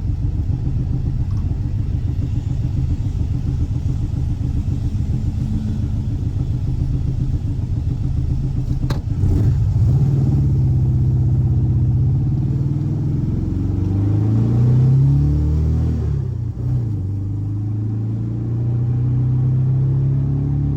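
Air-cooled 1584cc flat-four boxer engine of a VW Fusca (Beetle) running at a steady speed, then, after a short click about halfway, getting louder with its engine speed rising and falling a few times before settling again.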